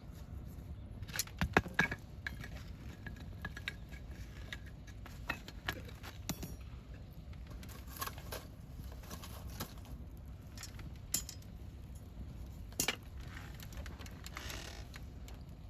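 Wood campfire crackling, with irregular sharp pops and snaps from the burning wood, a cluster of louder pops about a second and a half in and another near the end, over a steady low rumble.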